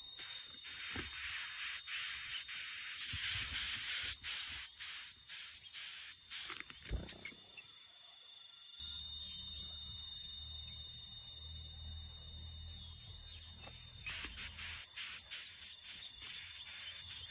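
Steady high-pitched insect chorus, crickets or similar, shrilling throughout, with scattered short clicks and a low rumble in the middle stretch.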